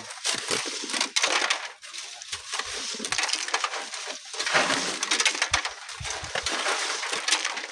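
Sand and gravel rattling and trickling, a dense, irregular run of small gritty crackles and clicks.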